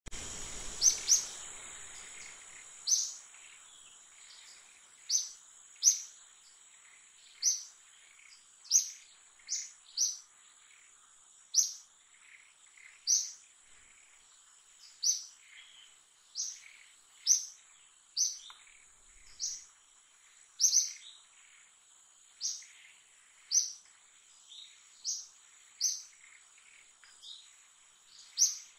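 A bird calling one short, high chirp over and over, about once a second, over a steady high-pitched insect drone.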